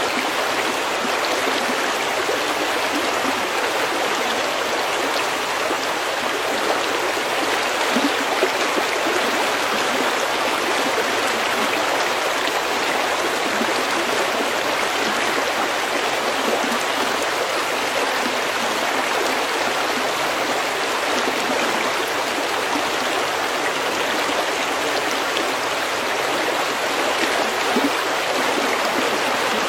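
Stream water flowing and babbling over pebbles, a steady, even rush with small gurgles.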